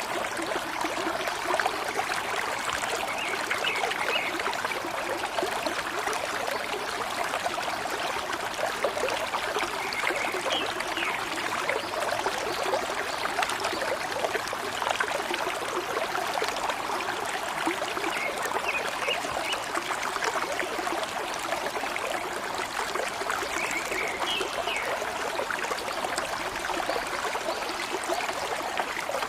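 A small stream trickling and gurgling steadily, with short, high bird chirps now and then.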